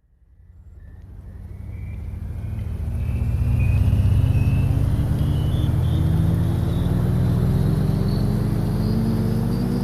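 A motor vehicle's engine running and speeding up, its pitch rising slowly and steadily, with a thin high whine rising along with it. It fades in from silence over the first few seconds.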